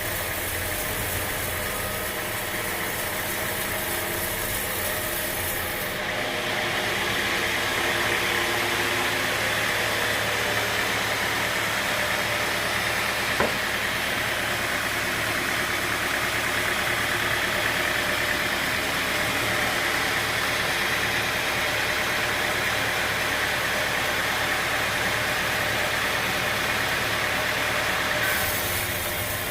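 Sawmill machinery running with a steady mechanical drone. The sound changes about six seconds in, turning hissier, and changes back near the end. A single sharp click comes about halfway through.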